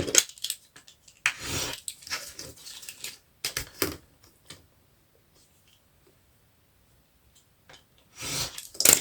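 Scissors cutting paper, with the rustle and clicks of paper being handled. The sounds come in short bursts over the first four seconds, then stop, and a louder burst comes near the end.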